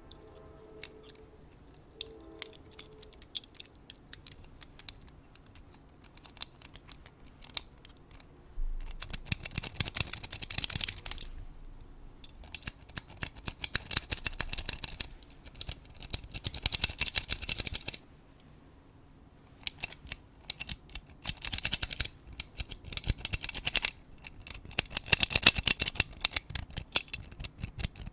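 Crickets chirring in a steady high tone, with scattered sharp clicks. From about nine seconds in, bursts of close, crackly scratching and brushing come in repeatedly, each lasting a second or two with short pauses between.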